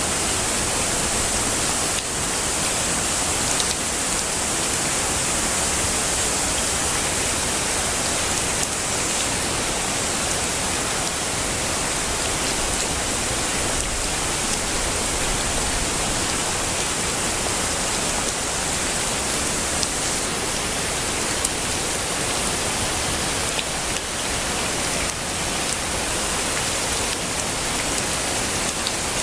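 Heavy rain falling steadily: a dense, even hiss with a few faint ticks of single drops, and no thunder.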